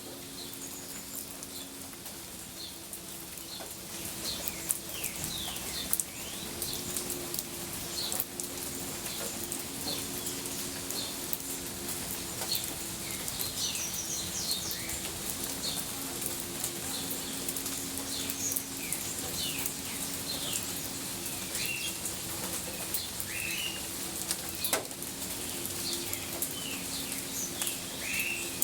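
Birds calling: many short, falling chirps, a few louder calls near the end, over a steady low two-tone hum and a faint hiss.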